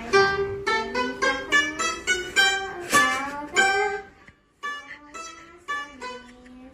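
Music: a melody of plucked notes on a guitar-like string instrument, some notes sliding in pitch, with a brief pause just past the middle.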